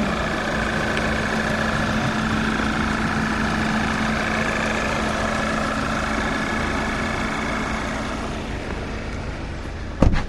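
Volkswagen Golf engine idling steadily, with an even low hum and a steady higher whine. A single sharp thump just before the end.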